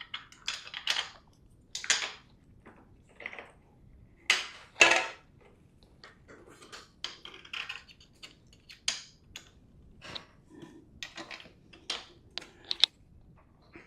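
Irregular clicks, taps and short scraping rustles of parts being handled while a cap and its screw are fitted back onto the Zwift Ride smart bike's handlebar mount, the loudest pair of scrapes about four and a half seconds in.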